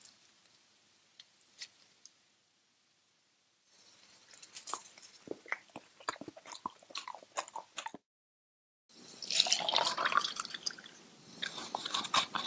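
Faint handling of a soft taro mooncake, then a few seconds of close, sticky biting and chewing of a taro mooncake with a cheese filling, heard as quick wet clicks and smacks. After a short silence, a louder, busier run of crackling handling sounds begins.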